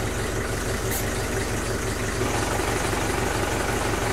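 Steady low hum of running machinery with a fast, even pulse, engine-like and unchanging throughout. A brief faint tick sounds about a second in.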